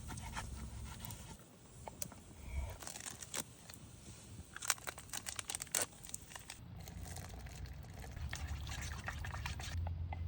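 Camp-cooking handling sounds: a run of light clicks and rattles of utensils and cookware, with liquid pouring and a packet crinkling, over a low steady rumble.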